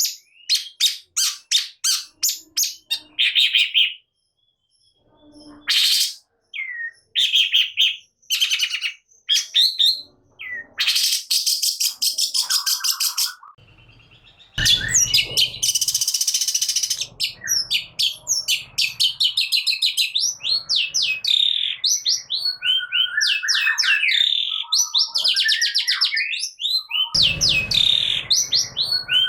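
Long-tailed shrike (cendet) singing hard: fast runs of repeated sharp chirps, bursts of harsh rasping chatter, and quick sliding whistled phrases, in a loud, varied song.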